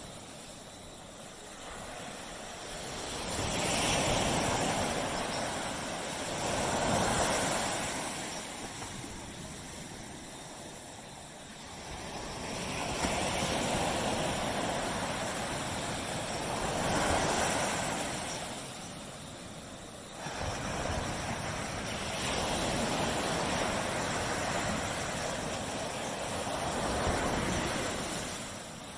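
Surf on a beach, waves breaking and washing in. The noise swells and fades every few seconds.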